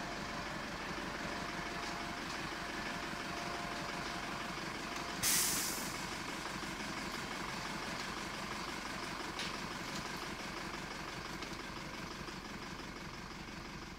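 Steady rumble of heavy road vehicles with one short, loud air-brake hiss about five seconds in; the rumble eases slightly near the end.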